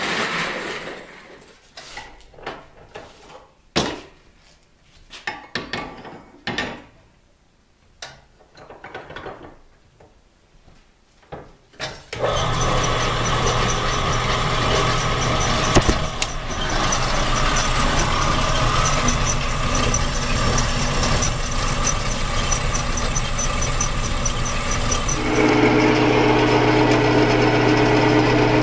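Scattered clicks and clatters of parts and tools being handled, then about twelve seconds in a workshop power tool starts and runs loudly and steadily with a high squealing note; its tone shifts near the end.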